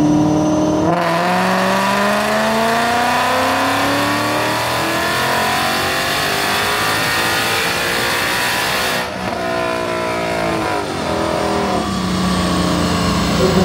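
A Mustang's engine run at full throttle, its revs climbing smoothly in one long pull for about eight seconds with no gear changes. The revs then drop away as the throttle is lifted, and the engine settles to a lower, steady note near the end.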